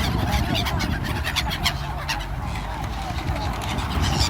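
Seagulls calling: a scatter of short squawks over a steady low rumble.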